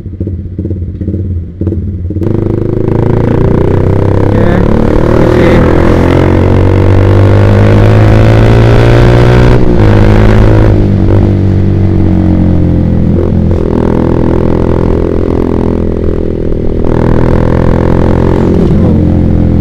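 Yamaha Vixion's single-cylinder engine running through a Proliner TR1 racing exhaust while the bike is ridden. The revs climb steadily for several seconds, drop sharply at a gear change about halfway, then climb and dip again near the end.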